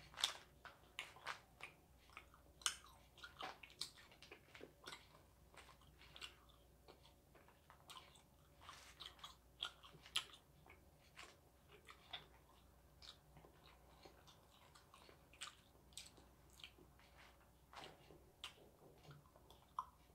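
Close-miked chewing and biting of small torn-off pieces of a giant pressed dried-squid sheet snack. The chewing is quiet, with irregular sharp clicks and soft crunches.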